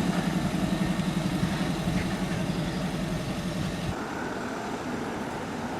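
A car engine idling steadily, then cutting off abruptly about four seconds in.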